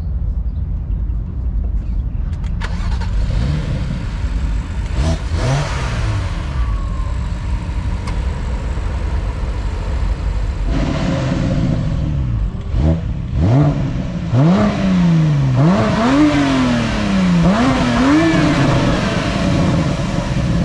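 A car engine rumbling at idle and being revved, the pitch climbing and dropping back once early on and then several times in quick succession in the second half.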